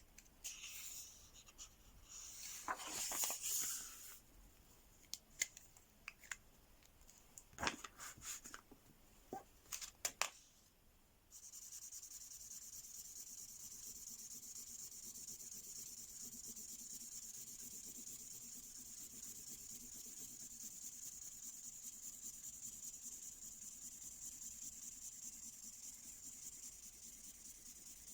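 Imagine Ink magic pen scratching rapidly back and forth on paper as it colours in a page, steady from about eleven seconds in. Before that come scattered clicks and short rustles of handling.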